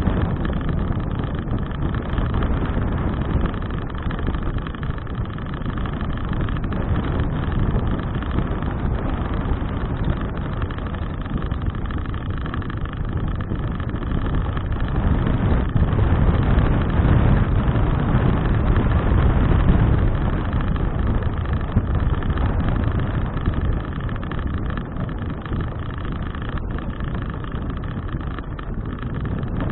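Wind rushing over an action camera's microphone on a moving bicycle: a steady low rumble that swells for a few seconds around the middle.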